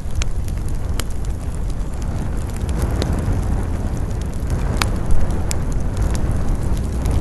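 Campfire burning with sharp crackles and pops scattered over a steady low rumble of wind.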